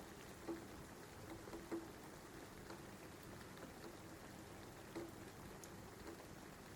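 Steady, faint rain with scattered drops landing on a surface, a few of them louder plinks.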